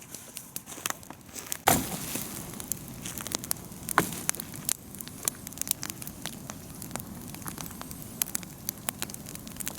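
Large bonfire of cut branches and brush burning, with a steady rush of flame and dense crackling. Sharp pops stand out about two seconds and four seconds in.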